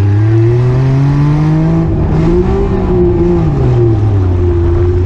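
Daihatsu Mira rollover car's engine heard on board, revving up under acceleration, easing off about three and a half seconds in and then holding a steady speed.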